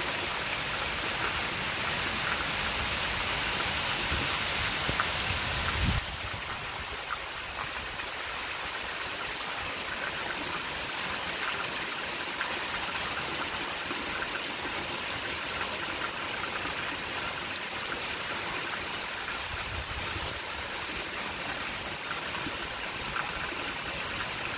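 Heavy rain pouring steadily onto a wet concrete terrace and palm trees: an even, unbroken hiss that drops a little in level about six seconds in.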